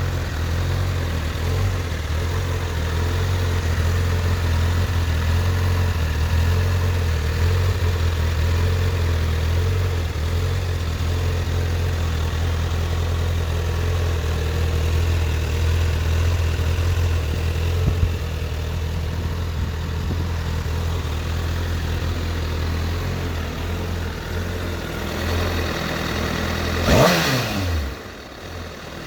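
Honda CBR1000RR Fireblade's 999 cc inline-four engine idling steadily. Near the end a sharp blip of the throttle sends the revs up, and they fall straight back.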